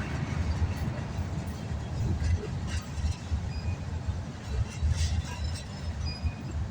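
Freight cars of a passing CSX mixed freight train rolling by close at hand: a steady, uneven low rumble of wheels on rail with scattered faint clicks.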